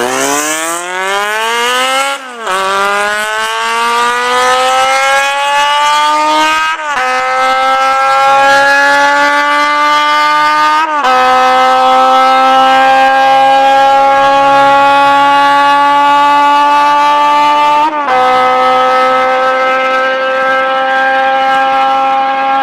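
Honda CBX400F inline-four engine with a Kinokuniya aftermarket muffler, accelerating hard through the gears. The exhaust note climbs, drops sharply at each of four upshifts, then climbs again more slowly in each higher gear.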